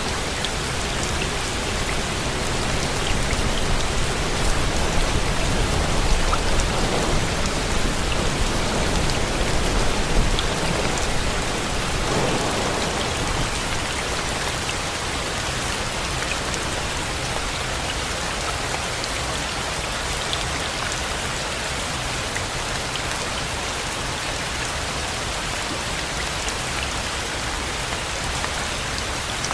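Steady rain falling. A low rumble of thunder dies away over the first dozen seconds, leaving an even hiss of rain.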